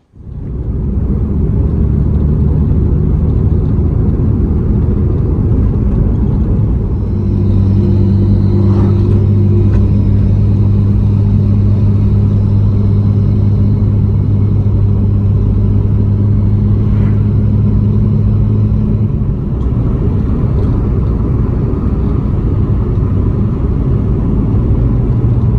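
Mazda RX-7 FD3S on the road, its twin-turbo rotary engine and road noise making a loud, steady low drone heard from inside the cabin. The engine note holds one pitch for about twelve seconds in the middle, then shifts. No tailgate squeak is heard over it, now that foam pads are fitted under the tailgate.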